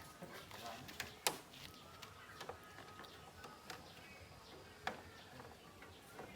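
A few sharp clicks and light knocks, the loudest about a second and a quarter in, over faint chirping in the background.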